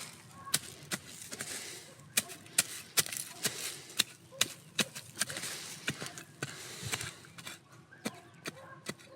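Wood campfire crackling, with irregular sharp pops and snaps several times a second over a soft hiss from the flames.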